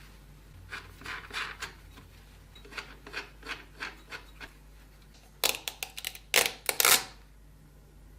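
Hands handling PC hardware: a few short rubbing scrapes, then scattered light clicks, and near the end a louder quick run of sharp clicks and scrapes.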